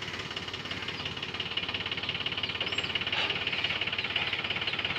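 Tractor diesel engine running steadily, with a fast even knock of its firing.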